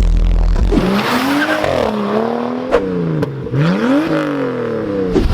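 Car engine being revved repeatedly, its pitch climbing and falling in several sweeps, with two sharp cracks a half-second apart midway through.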